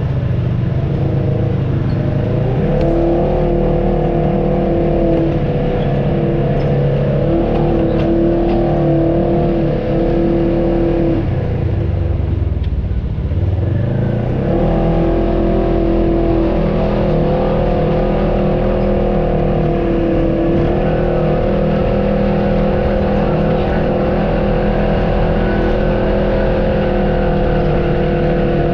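Off-road vehicle's engine running steadily while crawling a trail. The revs drop and climb again about halfway through.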